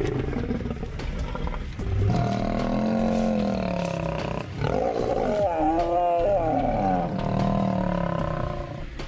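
Male lions growling and snarling at each other in a face-off. The growls are long and drawn out, rising and falling in pitch, with a short break about halfway through.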